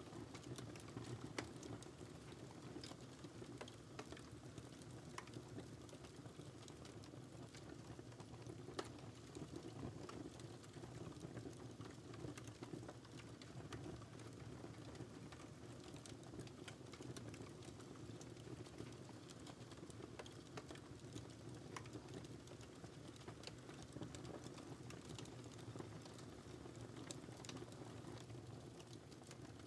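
Faint wood fire crackling: irregular sharp pops and snaps over a steady low rustle of the burning fire.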